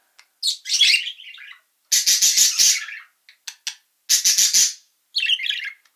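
Rainbow lorikeet giving a run of harsh, scratchy screeches, five or so in a few seconds with short pauses between them.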